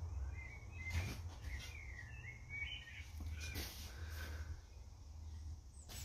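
Faint wild birds singing in short wavering phrases over a steady low rumble, with a couple of light taps, at about one second and again past the middle.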